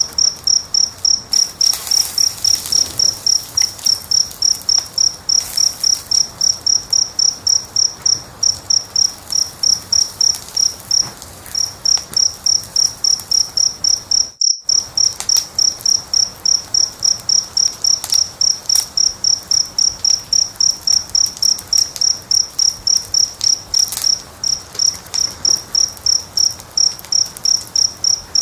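A cricket chirping steadily, about three chirps a second, with a faint crackling fire and scattered pops beneath it. The chirping breaks off briefly about halfway through.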